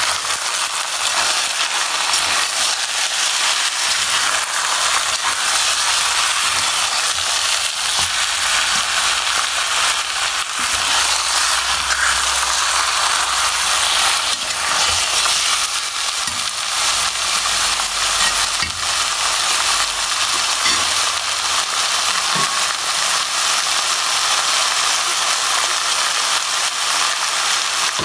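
Food frying in hot oil in a pan, with a steady sizzle and dense crackling throughout.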